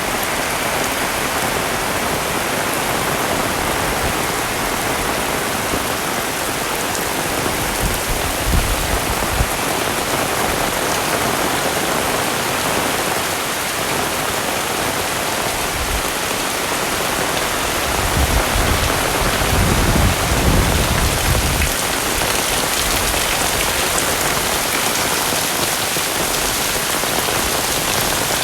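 Heavy rain falling steadily, with a low rumble coming in briefly about eight seconds in and again for a few seconds around twenty seconds in.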